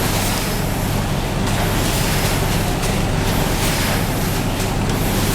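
Steady running noise of an X-ray food inspection machine and its conveyor: a strong low hum under a hiss that swells and eases every second or so.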